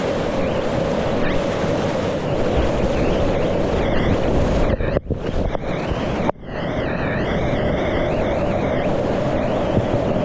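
Rushing whitewater rapids, with wind noise on the microphone. The sound cuts out sharply twice near the middle.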